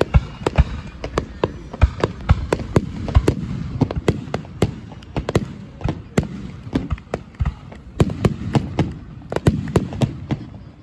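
Fireworks display, a rapid barrage of bursting shells: sharp bangs come three or four a second over a low rumble.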